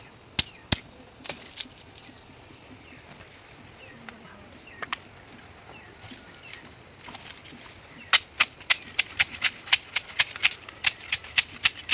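Sharp cracking knocks: a few single ones in the first two seconds, then a fast, fairly even run of about four a second from about eight seconds in.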